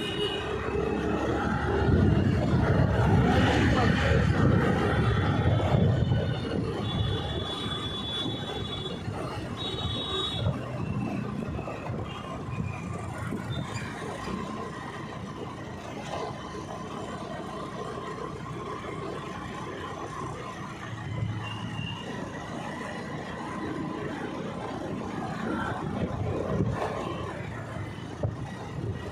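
City street traffic heard from a moving bike: a loud low rumble for a few seconds near the start, then several short high beeps, then a steadier traffic hum.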